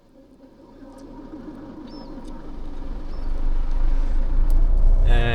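A car's low rumble grows steadily louder over several seconds, with a brief steady tone starting near the end.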